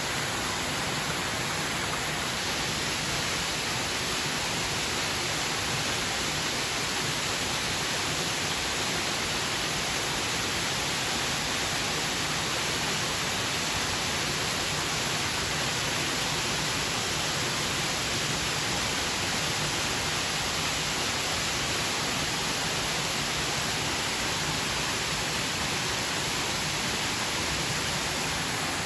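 Mountain waterfall crashing into its pool, heard from the base as a steady rush of falling water, without a break.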